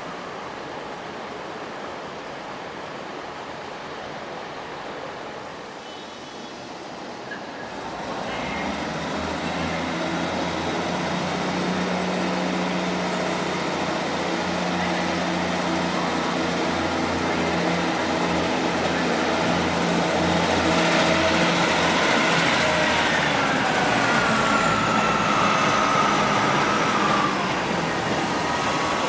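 A diesel passenger train moving through the platform. Its engine hum builds about eight seconds in, then a high metallic squeal slides down in pitch for a few seconds near the end.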